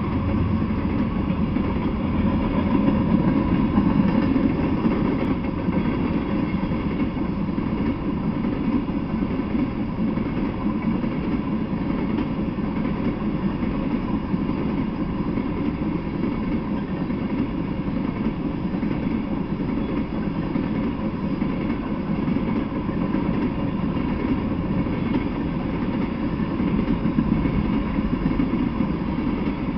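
Freight train of tank cars rolling slowly past on the rails: a steady rumble of wheels on track.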